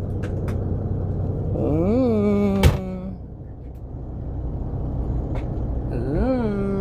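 Semi-truck engine idling with a steady low hum, heard from inside the cab. A few light clicks come near the start, and a single sharp knock comes a little before 3 seconds in. Two drawn-out tones each rise in pitch and then hold, one around 2 seconds in and one near the end.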